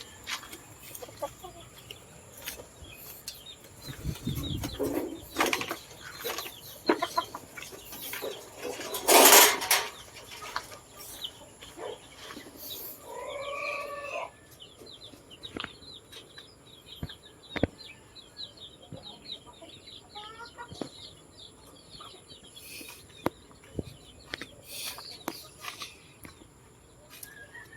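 Rural field ambience with scattered rustles and clicks and a loud rush of noise about nine seconds in. A short chicken call comes about thirteen seconds in, followed by faint high ticking.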